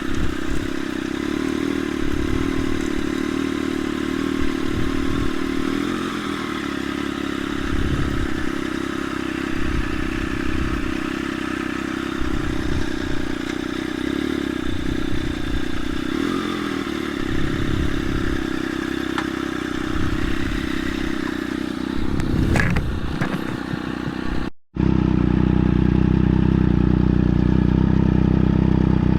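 Triumph Daytona Moto2's inline three-cylinder engine running steadily through a link pipe with the stock muffler removed, with irregular low bumps and knocks. Near the end there is a cut, and the engine is then heard louder and closer, running steadily.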